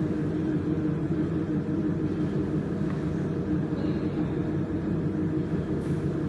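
Steady low machine hum with a constant drone that does not change.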